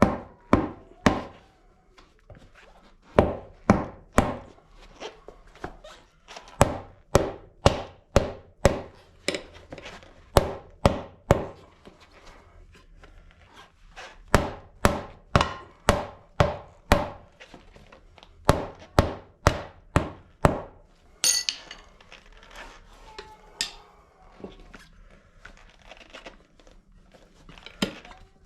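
Repeated hammer blows on a motorcycle tire bent off its wheel rim, knocking the last bead off a Honda Grom wheel: sharp strikes in runs of about two to three a second, with short pauses between runs. About 21 seconds in the hammering stops, followed by a brief scraping rustle and a few lighter knocks.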